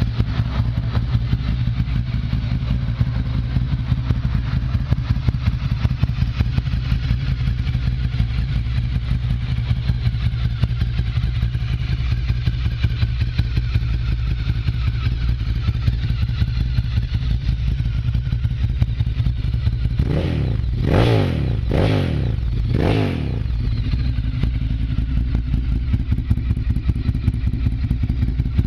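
Ducati Monster 1100 EVO's air-cooled L-twin idling through a full Termignoni exhaust with a steady, lumpy beat. About two-thirds of the way through, the throttle is blipped three times in quick succession, each rev rising and falling, then the engine settles back to idle.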